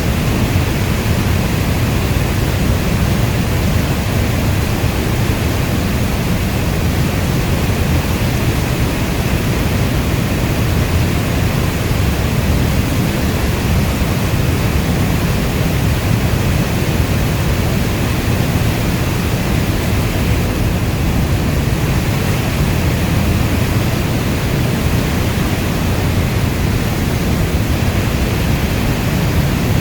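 Steady heavy rainfall: a dense, even hiss, heaviest in the low end, with no single drops standing out.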